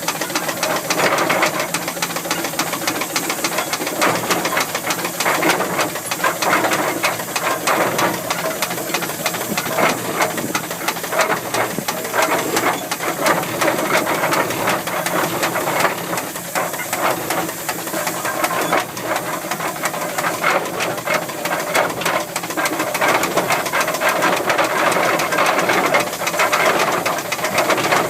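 1913 steam traction engine running along the road: a steady rapid beat of exhaust and clattering motion, with hissing steam.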